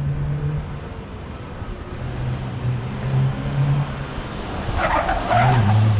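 Car engine running, its low note holding steady, fading, then coming back at a shifted pitch, with a brief rough, noisy burst about five seconds in.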